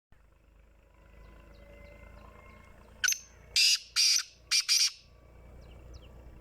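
Black francolin calling: a short note about three seconds in, then a quick series of four harsh, grating notes over about a second and a half, over a faint steady background hum.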